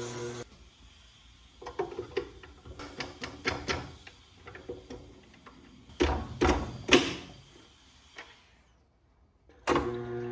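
Steel plane iron being worked in a sharpening setup: a run of small metallic clicks and taps, then a few louder scraping strokes of the blade about six to seven seconds in.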